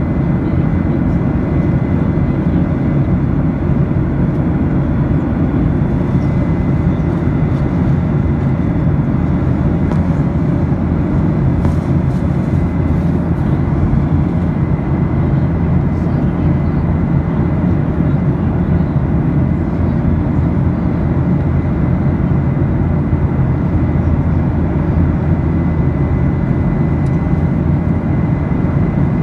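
Steady drone of an airliner in flight heard from inside the cabin: engine and rushing-air noise, heavy in the low end, with a faint high steady whine.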